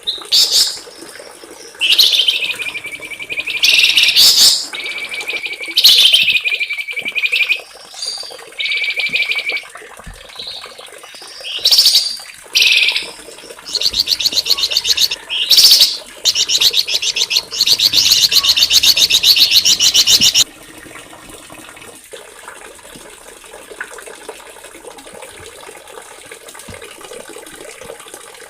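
Small songbird singing: sharp, high-pitched phrases and fast rolling trills of rapidly repeated notes. The song cuts off suddenly about two-thirds of the way through, leaving a faint steady background hiss.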